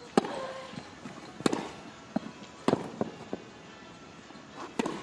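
Tennis rally: a ball struck back and forth with rackets, sharp hits about every second and a quarter with fainter knocks between them.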